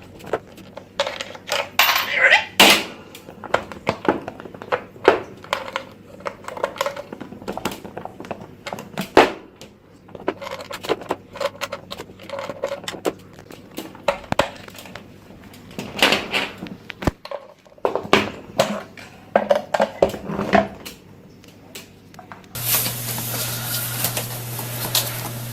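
Irregular clattering, clicking and tapping of small hard objects. Near the end it gives way to a steady hiss with a low hum.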